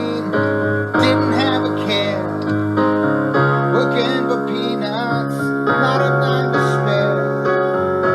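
Keyboard music: held piano-like chords with a melody gliding over them.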